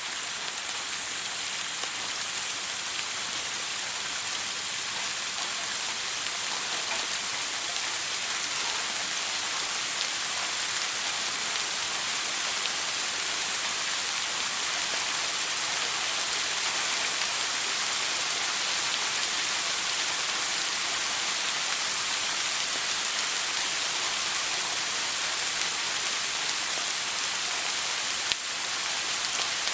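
Shower spray running steadily, an even hiss of water falling. A single small click sounds near the end.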